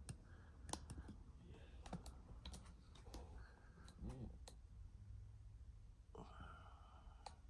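Near silence, broken by faint scattered clicks and ticks, with a faint held tone about six seconds in.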